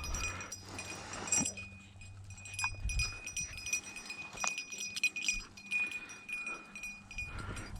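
A small bell on a hunting dog's collar jingling and ringing faintly as the dog moves, with light rustling through cover.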